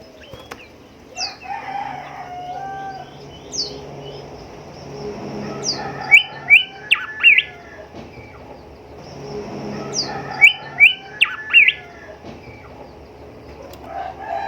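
Golden whistler singing: high thin down-slurred whistles, and twice a loud run of quick sharp notes, about six seconds in and again about ten seconds in.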